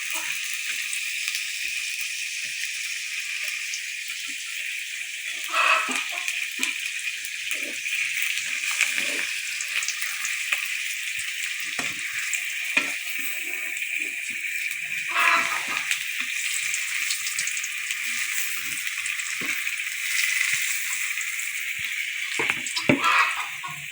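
Food sizzling and simmering in a pan on the stove with a steady hiss. Scattered knocks and clinks of a utensil against the pan come through it, a few louder ones spread through the stretch.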